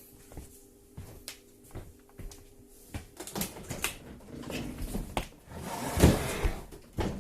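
Samsung dishwasher being handled and stood back upright: scattered knocks and clicks, then scraping and bumping, with a heavy thump about six seconds in and another knock near the end.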